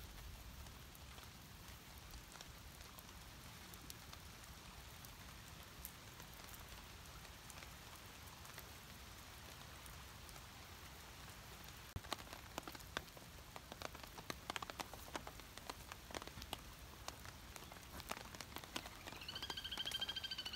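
Rain falling steadily, with drops ticking on a surface; about halfway through, the drips become louder and more frequent. Near the end comes a brief high-pitched tone.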